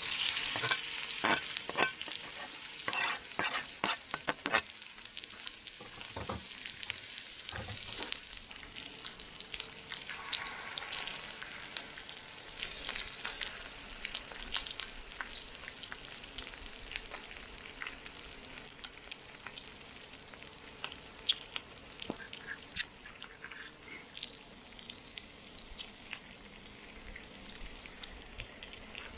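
Food sizzling as it fries in a hot pan: a steady hiss with quick crackles and pops. The crackles are dense and loud in the first few seconds and then thin out.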